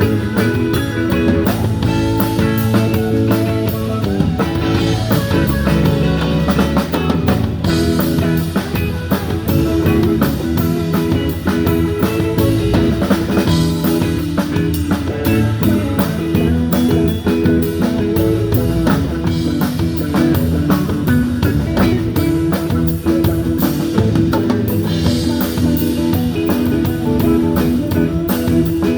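Live rock band playing an instrumental passage: electric guitar over a steady drum-kit beat.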